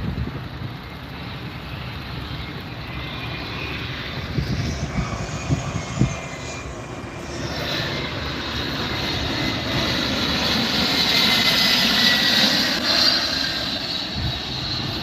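Airplane engines passing overhead, the noise swelling steadily to a peak about twelve seconds in and then easing slightly, with a faint falling whine near the peak. A few brief low thumps about five to six seconds in.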